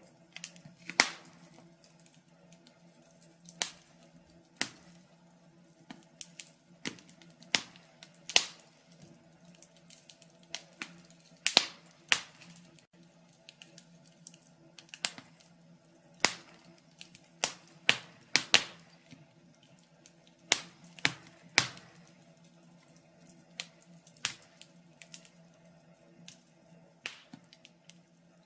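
Wood fire crackling: irregular sharp pops and snaps, a few a second with some louder ones, over a faint steady low hum.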